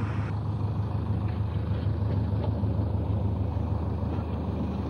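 A vehicle engine running steadily with a low hum, with a few faint clicks.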